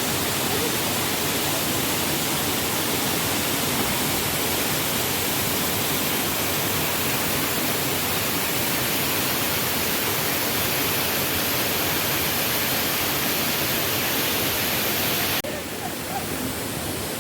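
Waterfall rushing: a loud, steady hiss of falling water. About fifteen seconds in it drops suddenly to a quieter, duller rush.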